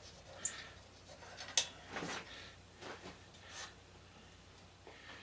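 Scattered small clicks and short scrapes of hand tools and metal parts being worked on, with one sharp click about a second and a half in.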